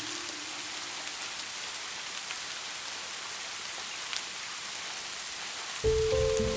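Steady rain falling, an even hiss with a few faint drop ticks. Piano music comes in near the end.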